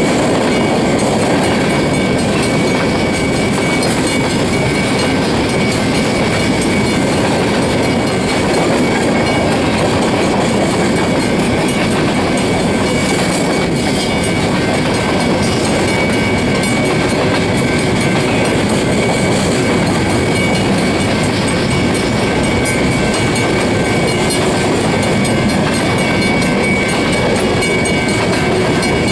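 Freight train of empty-bodied steel rock gondola cars rolling past close by: the steady rumble and clatter of steel wheels over the rail joints, unbroken throughout, with a thin steady high tone held above it.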